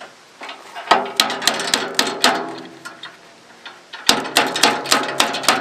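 Metal clanking and knocking on a tractor's three-point hitch and tiller linkage as the broken parts are handled, in two quick, irregular runs of strikes separated by a short pause.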